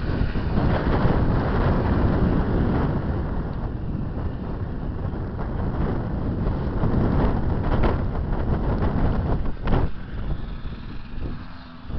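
KTM 380 SX two-stroke motocross engine running hard, with wind on the microphone. It has a couple of sharp cracks late on, then drops away near the end.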